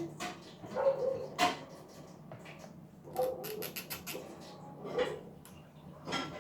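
Light clicks and knocks of hands and tools handling the plastic fuel-line connectors on a fuel pump assembly, with a quick run of small clicks about three seconds in.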